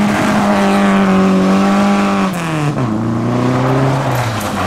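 A modified car's engine revving hard and holding high revs for about two seconds. The revs drop sharply about two and a half seconds in, run lower, then start climbing again near the end.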